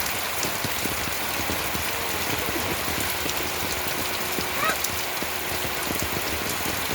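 Steady rain falling, an even hiss with many small drop impacts on nearby surfaces.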